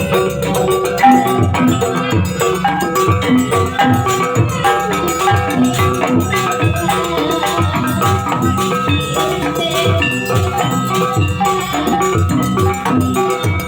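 Banyuwangi barong gamelan music: a driving drum beat under ringing metal keyed percussion.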